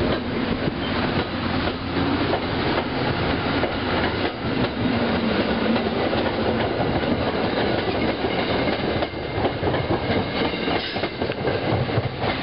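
MBTA commuter rail coaches rolling past close by, a steady loud rumble and rush with the steel wheels clacking on the rails.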